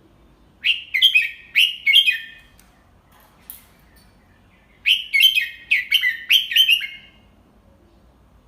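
Red-whiskered bulbul singing two short phrases of quick, downward-sweeping whistled notes, a few seconds apart: a tutor bird's clear song for young bulbuls to copy.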